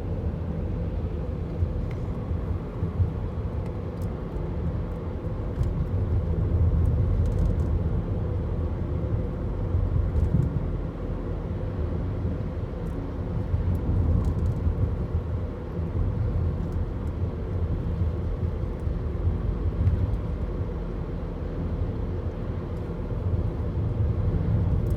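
Semi truck's diesel engine running steadily with road rumble while the truck drives down the road.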